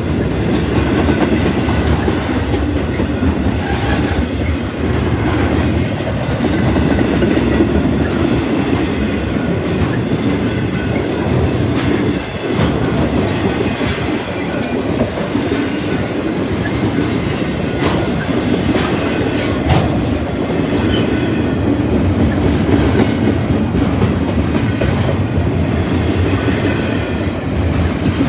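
Double-stack intermodal freight train's well cars rolling by: a steady rumble of steel wheels on rail, with scattered sharp clicks as the wheels pass over the rail joints.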